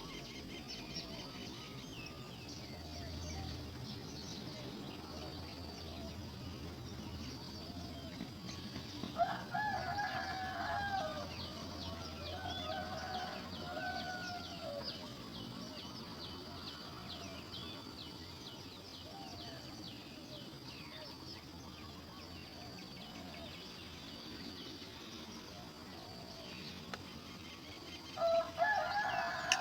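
A rooster crowing: a long call about nine seconds in and another near the end, over a steady high chirring background.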